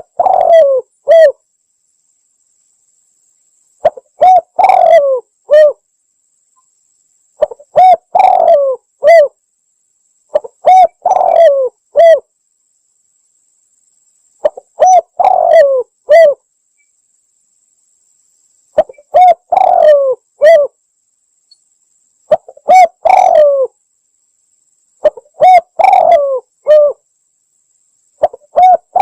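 Spotted dove (tekukur) cooing, played as a bird-catching lure call: a phrase of a few short coos and one longer falling coo, repeated about every three to four seconds, around eight times.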